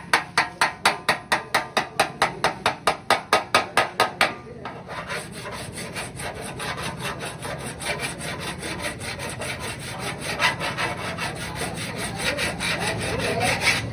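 Quick, even hammer taps on car body sheet metal, about four a second, that stop about four seconds in; then a steady rubbing, rasping scrape of a file or abrasive worked back and forth over the panel during dent repair.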